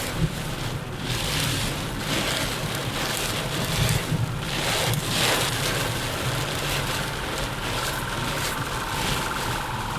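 Heavy rain and wet tyre noise heard from inside a moving car, a steady hiss with surges of spray at about a second and a half in and again near the middle. A steady whine comes in near the end.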